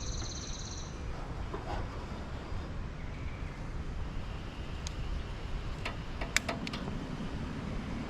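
A camp stove being lit: a few sharp clicks of the burner knob and igniter about five to seven seconds in, over a steady low outdoor rumble. A high pulsing chirr fades out about a second in.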